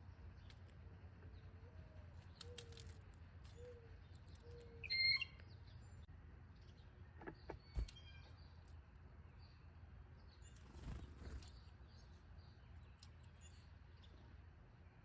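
Backyard birds calling: four low, soft falling notes in a row, then a sharp chirp about five seconds in that is the loudest sound. A few faint clicks follow.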